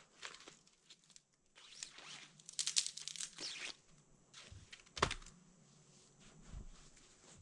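Dry twigs and small branches being snapped and broken by hand, with crackling and rustling and one sharp, loud snap about five seconds in.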